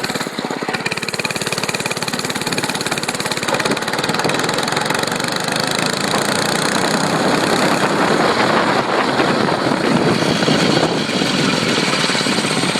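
Dirt bike engine running hard as it is ridden, a rapid even pulse that grows louder from about four seconds in.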